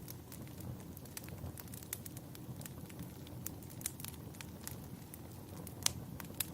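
Wood fire burning in a fireplace: a steady low rumble of flames with frequent irregular crackles and pops, one sharper pop near the end.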